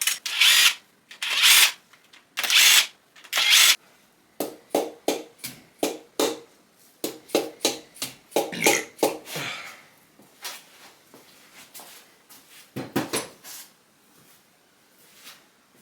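Hand work on LS1 engine parts: four sharp, noisy strokes about a second apart, then a quick run of light metallic clicks and knocks that thins out, with one heavier knock near the end.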